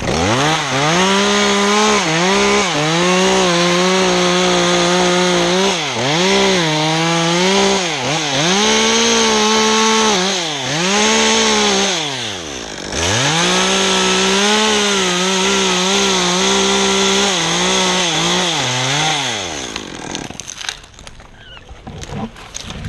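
Chainsaw cutting through a pine trunk at high revs, its pitch dipping and recovering several times as the throttle is eased and squeezed again, then stopping about 20 seconds in. A few scattered knocks follow near the end, likely the cut top coming down.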